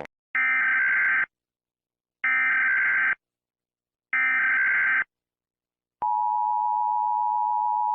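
Emergency Alert System SAME header: three one-second bursts of digital data tones with a second of silence between them, followed about six seconds in by the steady EAS attention tone.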